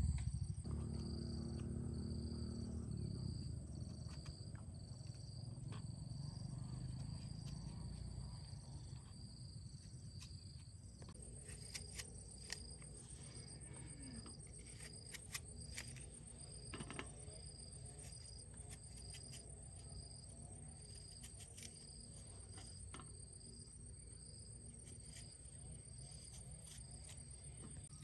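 Insects chirping: a steady high trill with a short, higher chirp repeating about every two-thirds of a second. Under it, a low rumble fades away over the first ten seconds, and scattered small clicks come and go.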